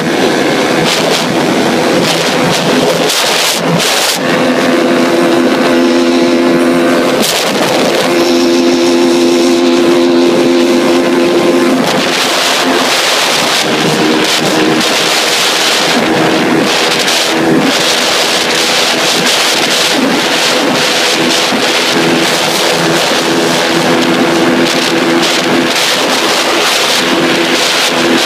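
Yamaha Y135LC's single-cylinder four-stroke engine running hard at high revs on a top-speed run, with wind rushing over the microphone. The engine note breaks off briefly twice in the first eight seconds, then holds steady while the wind hiss grows louder from about twelve seconds in.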